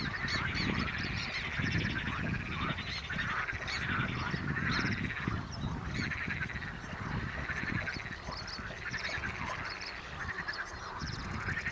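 A steady chorus of animal calls, short honking calls repeated many times over without a break.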